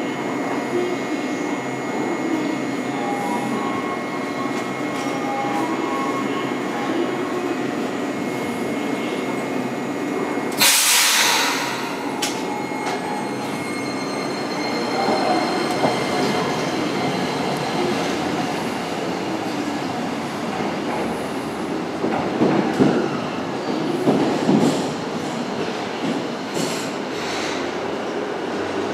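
Toei 8800-series electric tram running on its rails while switching tracks to turn back, wheels on the rails, with a loud hiss lasting about a second roughly ten seconds in and louder rumbling a little over twenty seconds in.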